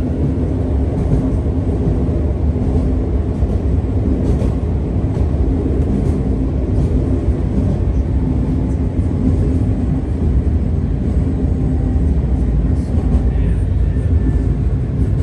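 Tvärbanan light-rail tram heard from inside the car while running between stops: a steady low rumble of wheels on rail with a constant motor hum.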